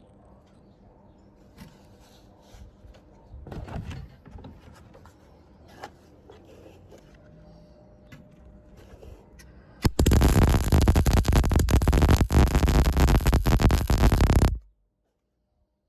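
Light scraping and handling noises, then a MIG welder arc crackling loudly for about four and a half seconds before it stops suddenly.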